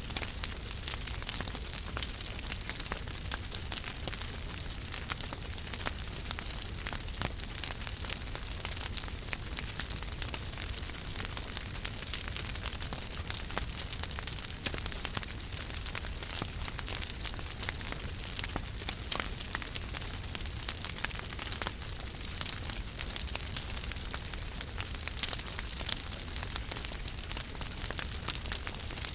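Wood fire burning in a fireplace, crackling steadily with many small sharp pops over a soft low rumble.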